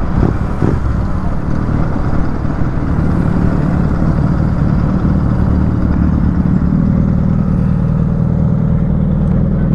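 Royal Enfield Continental GT 650's parallel-twin engine running with a steady note, with a couple of brief rises in pitch near the start.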